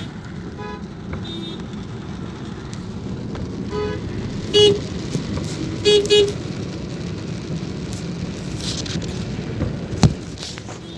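Steady rain and road noise heard from a moving car, with vehicle horns honking: fainter toots early on, one short loud honk about four and a half seconds in and a quick double honk around six seconds. A single sharp knock near the end.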